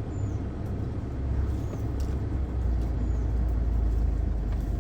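Safari jeep's engine running as the vehicle drives along, a steady low rumble that builds slightly partway through.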